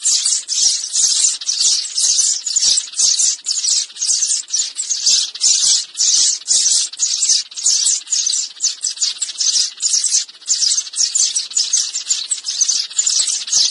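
Sparrows chirping in a rapid, unbroken stream, about three short, high chirps a second.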